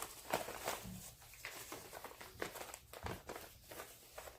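Rustling and small scattered clicks of a bag of small gaskets being rummaged through by hand.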